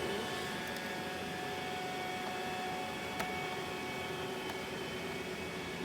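Robot vacuum cleaner running, a steady whirring hum of its suction fan and brushes, with one short click about three seconds in.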